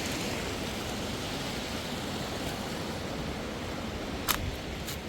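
Steady rush of river water. A sharp click about four seconds in, and a fainter one just after.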